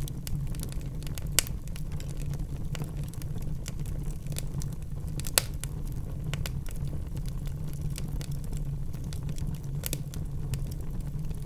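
Wood fire crackling in a fireplace: a steady low rumble with constant small snaps and two louder pops, one about a second and a half in and one about five seconds in.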